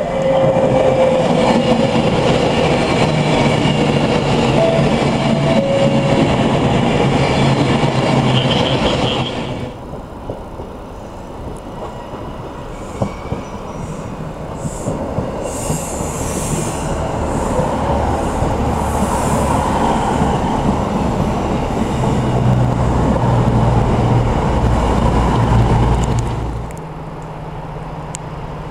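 Class 390 Pendolino electric train passing through at speed: a loud rush of wheels and air with a falling tone, which stops abruptly about nine and a half seconds in. Then a Northern Class 150 diesel multiple unit runs at the platform with a low steady engine drone that builds up and cuts off suddenly near the end.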